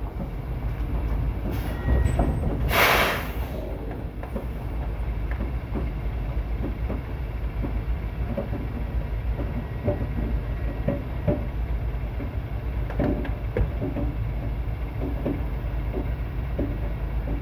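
Semi truck's diesel engine running with a steady low rumble, a short burst of air hiss about three seconds in, and scattered light rattles and knocks.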